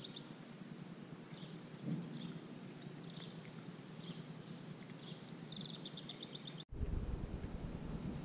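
Small birds chirping and trilling in short repeated phrases over faint outdoor background noise. Near the end the background switches abruptly to a louder low wind rumble on the microphone.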